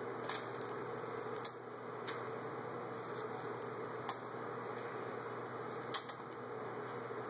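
Seaweed being chewed: a few short, sharp crackles, about five in all, over a steady background hum.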